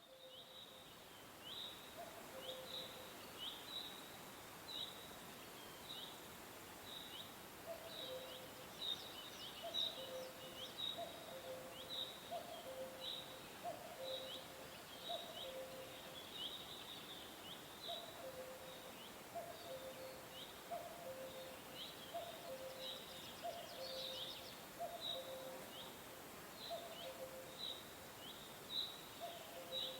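Birds chirping over a steady hiss: short, high, down-slurred chirps repeat about twice a second, joined by a lower two-note call about once a second. The sound fades in out of silence at the start.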